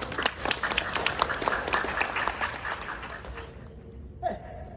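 Spectators clapping, thinning out and dying away after about three seconds, then one short sharp sound near the end.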